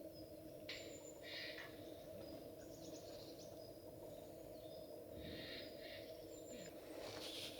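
Faint, short high-pitched bird chirps at irregular intervals over a steady low hum, with a cluster of chirps near the end.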